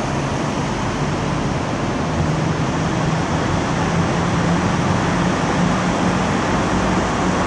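Semi truck's diesel engine running as the truck pulls out, with a steady wash of noise and an engine note that rises slowly in pitch.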